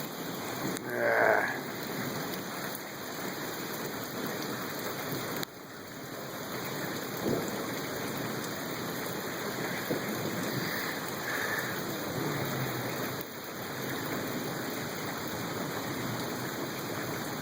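Steady rain falling, an even hiss throughout, with a brief louder sound about a second in.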